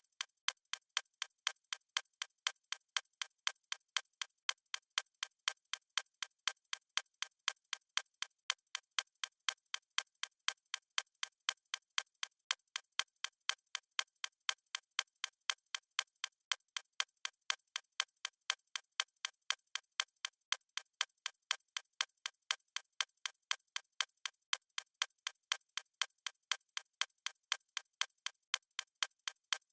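Fast stopwatch ticking sound effect: crisp, evenly spaced ticks at a steady pace, bright and thin with no low end.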